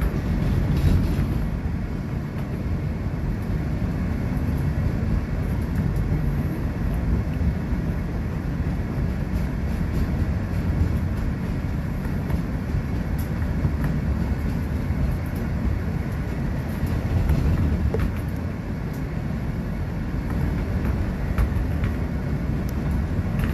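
New York subway train running along an elevated track, a steady low rumble heard from inside the car.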